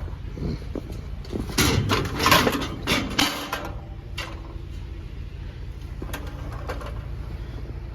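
A burst of clattering knocks and clinks about one and a half to three seconds in, with a few lighter ticks later, over a steady low hum.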